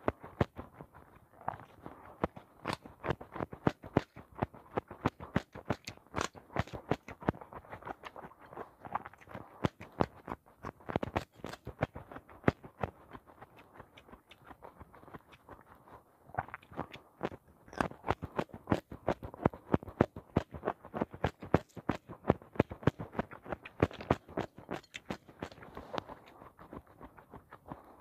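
Close-up chewing and crunching of raw vegetables, with many quick wet mouth clicks and crunches and a short lull about halfway through.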